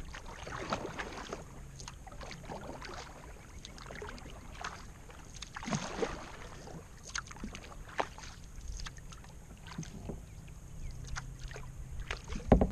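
Kayak paddling: the paddle dipping and dripping, making irregular small splashes of water.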